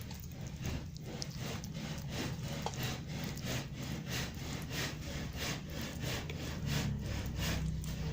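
Kitten chewing and crunching on a dead rat, a steady run of bites about three a second.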